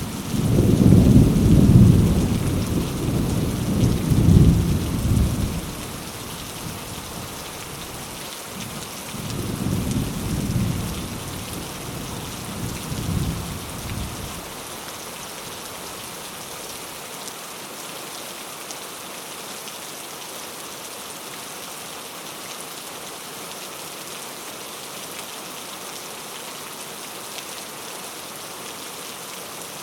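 Steady heavy rain hissing, with a loud roll of thunder rumbling for the first five seconds or so and a second, weaker roll a few seconds later; after that only the rain continues.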